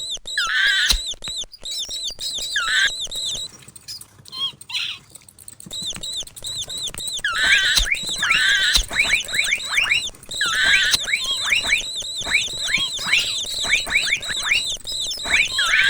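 Mouse squeaking sound effects: rapid strings of short, high squeaks that drop sharply in pitch, with a quieter gap about four seconds in.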